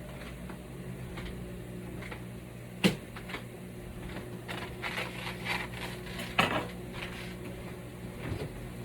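Kitchen clatter of utensils and dishes: a sharp knock about three seconds in and another around six and a half seconds, with softer clinks and scrapes between. A steady electrical hum runs underneath.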